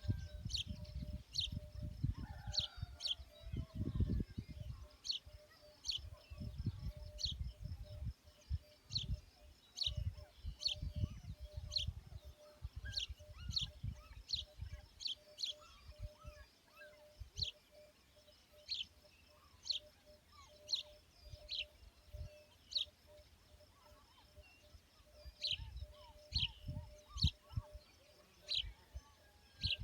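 Small bird chirping over and over in short, sharp chirps, with a faint steady pulsing trill underneath. Wind gusts on the microphone, strongest in the first half and again near the end.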